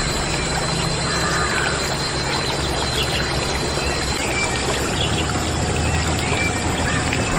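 Water pouring steadily from a small DIY toy water pump.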